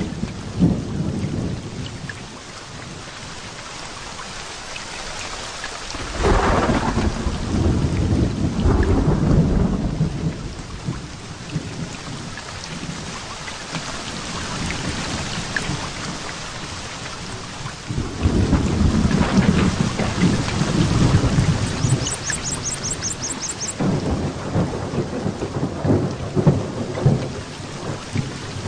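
Heavy rain falling steadily, with thunder rolling in three long rumbles: about six seconds in, around eighteen seconds, and again near the end.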